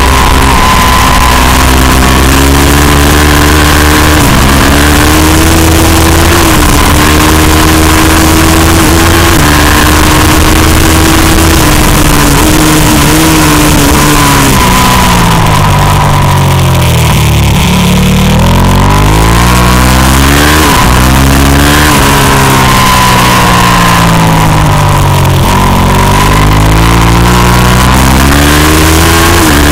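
Racing motorcycle engine running hard at high revs, with short dips in pitch at gear changes, then twice falling away and climbing again as the bike slows for corners and accelerates out. Wind rushes over the bike-mounted microphone throughout.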